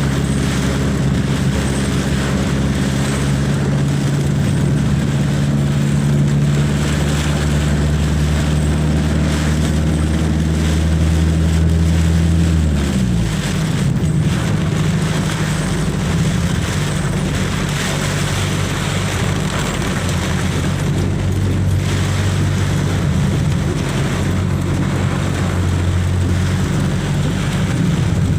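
Vehicle engine running steadily over a constant hiss; about halfway through its pitch drops quickly as the vehicle slows, then it carries on at a lower, steady pitch.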